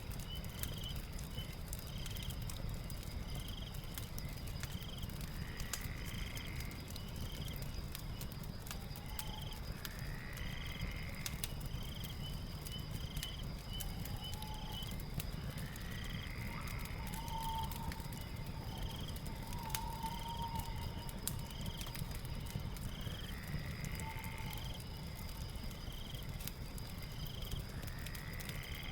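Night-time nature ambience with a fire: a steady high insect trill, short chirps about once a second, and a rising call every five or six seconds, over the scattered pops and low rumble of a crackling fire.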